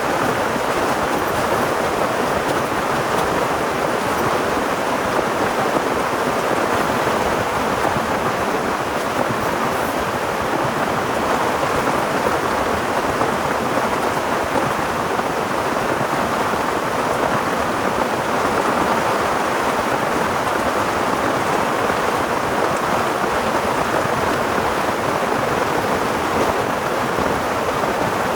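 Heavy rain falling steadily: a dense, even hiss of pouring rain that holds constant.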